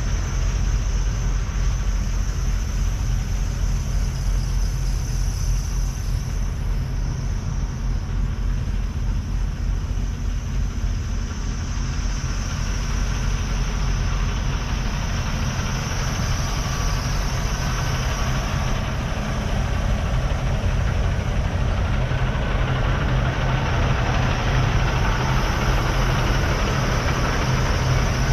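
Heavy diesel engines idling steadily, a constant low rumble that does not change much.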